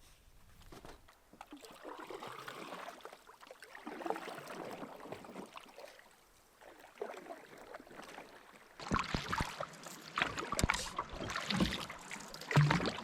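Canoe paddle strokes swishing through lake water in soft swells about every second and a half. In the later part there are louder sharp knocks and splashy clicks.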